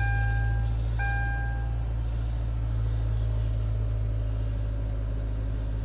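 2013 Kia's engine idling steadily just after a cold start in freezing weather. Two short electronic chimes from the car sound at the start and about a second later.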